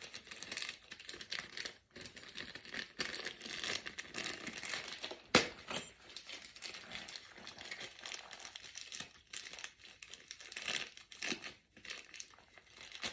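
Crinkly packaging of a replacement water-heater pilot kit rustling and crackling as it is handled and opened, with one sharp click about five seconds in.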